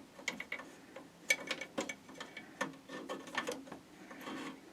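Irregular clicks and light rattles of power supply cables and their plastic connectors knocking against a computer case as they are pushed through behind the drive bays.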